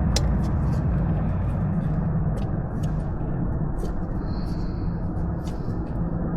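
Steady low rumble, with scattered light clicks and taps from hand work on the thermostat housing screws.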